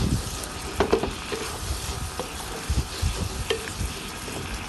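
Mushrooms in cream sauce cooking in a pan, with a steady sizzle as a spoon stirs them and knocks or scrapes against the pan a few times.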